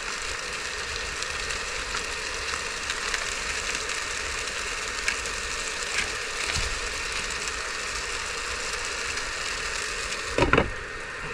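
Chicken stir fry sizzling steadily in a non-stick skillet with its sauce just added, with a few light clicks. A louder knock comes near the end.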